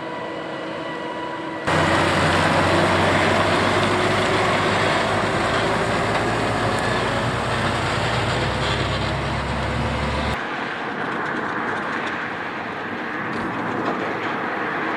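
Heavy truck diesel engines and road noise from a road convoy passing. The sound jumps abruptly louder about two seconds in, with a strong low drone, then drops suddenly to a quieter rumble about ten seconds in.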